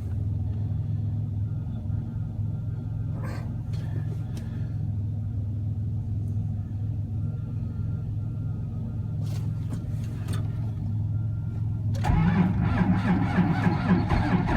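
A steady low hum with a few short clicks while the grid heater cycles, then about twelve seconds in the 1994 Cummins 5.9-litre 12-valve inline-six diesel cranks and fires on a cold start at 2 °F. It then runs loudly with a dense diesel clatter.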